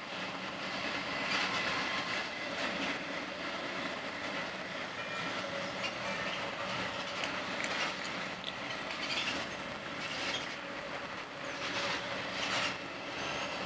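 Passenger train running at speed, heard from inside the carriage: a steady rolling noise of wheels on rail with irregular clacks over the rail joints and a faint high wheel squeal at times.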